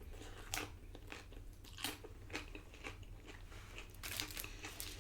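A person biting and chewing nacho tortilla chips: a string of irregular, crisp crunches.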